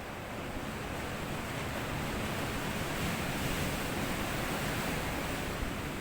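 Small sea waves washing up onto a sandy beach, the surf swelling to a peak around the middle and easing off near the end.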